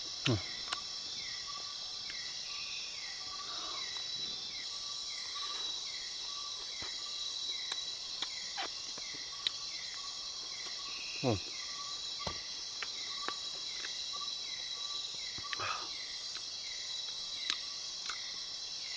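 Rainforest insect chorus: a steady high trilling with a short chirp repeating every half second or so. Scattered clicks and three brief downward-sliding sounds come in over it.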